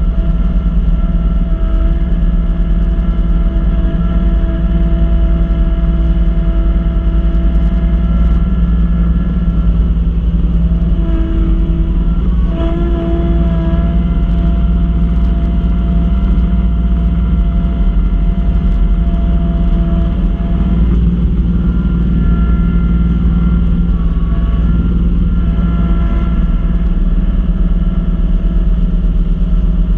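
Kubota B2650 compact tractor's three-cylinder diesel running steadily while driving a front-mounted B2782 snow blower. Its pitch shifts slightly about a third of the way in and again about two-thirds of the way through.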